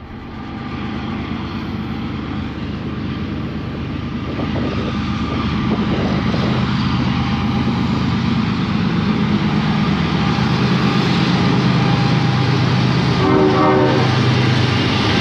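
Diesel freight locomotives running as a train approaches, their engine drone growing steadily louder.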